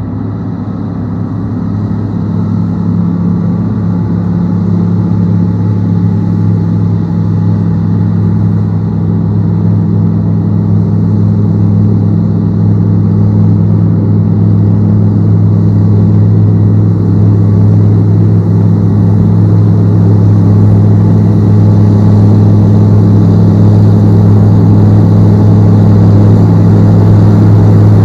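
John Deere 9400 four-wheel-drive tractor's diesel engine running steadily under load while pulling a dirt pan, its drone growing gradually louder throughout.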